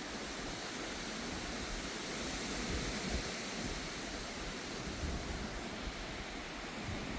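Strong thunderstorm: a steady, even rush of wind and rain.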